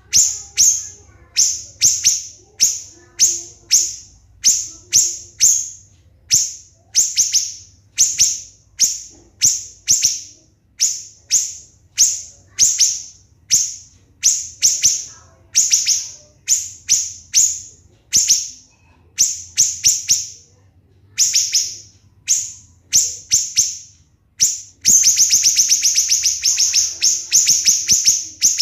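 Siri-siri bird singing a long series of sharp, shrill notes, each a short falling whistle, repeated two to three times a second with brief pauses between runs. About 25 seconds in it breaks into a fast, tight rattle of notes, the rapid 'tembakan' that bird keepers use as masteran to teach other songbirds.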